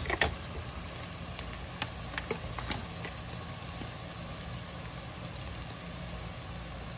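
Sliced onions and ground spices frying in hot oil in a pot: a steady sizzle, with a few sharp clicks, the loudest just after the start.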